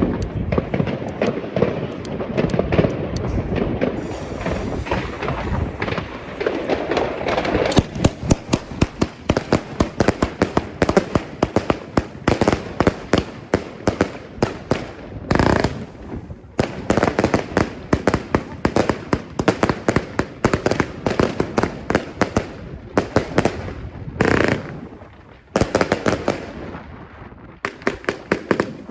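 A 100-shot, 25 mm compound firework cake fires in a fan, a rapid string of sharp launch shots and bursts several times a second. Near the end the firing thins out for a moment, then picks up again.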